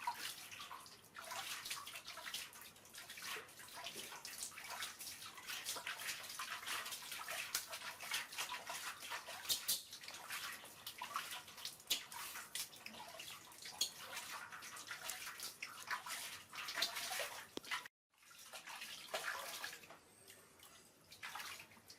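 Water splashing and sloshing in a small bathtub as a baby monkey is bathed, with irregular small splashes and drips. The sound cuts out for a moment near the end.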